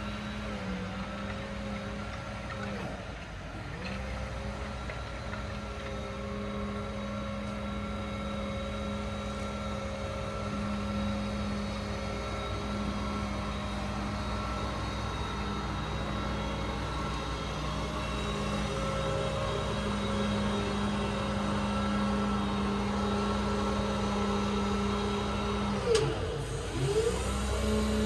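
Truck engine running steadily with the crane's PTO-driven hydraulic pump engaged, a constant humming whine. Near the end the pitch dips and swings a few times.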